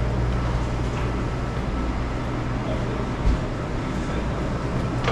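Steady low machinery hum with a faint thin whine above it, and a single dull thump about three seconds in.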